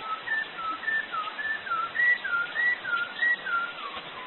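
A loud zoo bird whistling a steady run of clear notes, each a short slur up or down, about three a second.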